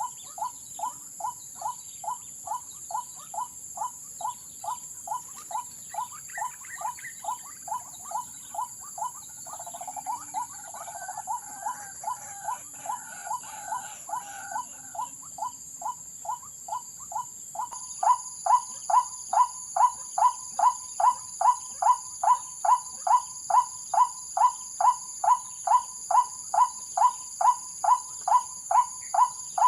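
White-breasted waterhen lure call: a short note repeated about twice a second, with a denser patch of calling in the middle and the notes getting much louder a little past halfway. Steady high-pitched insect trilling runs underneath.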